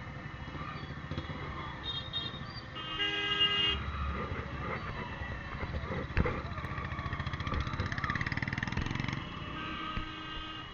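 Kawasaki ZX-10R motorcycle engine running on the move. A vehicle horn honks once, briefly, about three seconds in, and the engine note picks up for a couple of seconds near the end.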